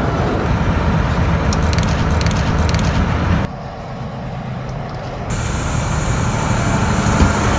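Train wheels rolling over the rail close to the microphone: a loud, steady rumble with a run of sharp clacks. The sound drops abruptly to a quieter level about three and a half seconds in, then grows loud again from about five seconds.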